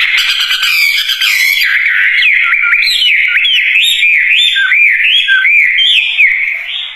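Songbird the Indonesian hobby calls a wambi singing in full voice: a fast, unbroken string of clear whistled notes that loop up and down in pitch.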